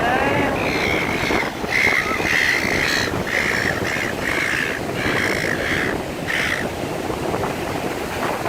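Silver gulls calling: a falling call, then a quick run of about ten short calls over several seconds, over steady wind noise on the microphone.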